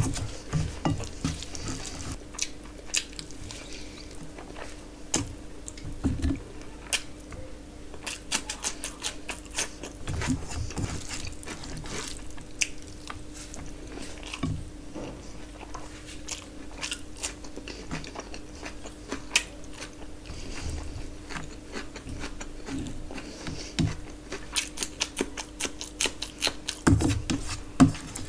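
Close-up eating by hand: wet chewing and lip-smacking clicks as mouthfuls of rice, chicken and curry are eaten, with fingers squishing rice and gravy together on a steel plate. A steady low hum runs underneath.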